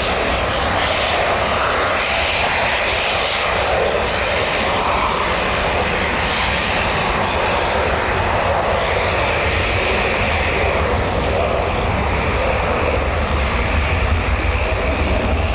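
Jet airliner engines running with a steady, loud noise that neither rises nor falls.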